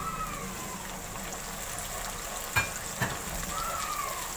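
Ground onion and green chilli paste sizzling as it fries in hot oil in a nonstick kadhai, stirred with a wooden spatula: a steady frying hiss. Two sharp knocks a little past the middle, about half a second apart, are the loudest sounds.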